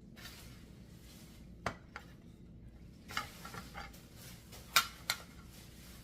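Kitchen clatter: dishes and cutlery knocking and clinking in a series of sharp clacks, after a short soft hiss near the start. The two loudest clacks come near the end, about a third of a second apart.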